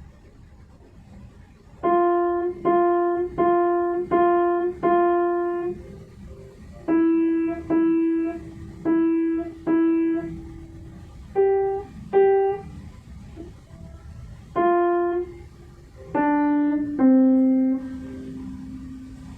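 Piano melody played one note at a time at a slow, even pace: groups of repeated same-pitch notes with pauses between them, then a few higher notes, ending on a long held lower note.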